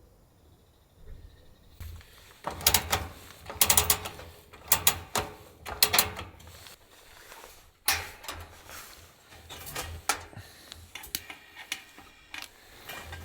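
Gear being handled by hand: a run of irregular clicks, clacks and rustles that starts about two seconds in.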